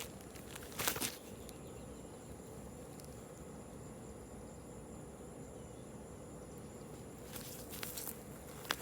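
Faint outdoor background with a steady, high-pitched insect drone, likely crickets. A light knock about a second in and a few soft clicks or steps near the end.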